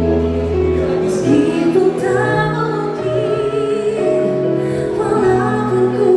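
Live band playing a pop song with a lead vocalist singing held notes with vibrato over bass and keys.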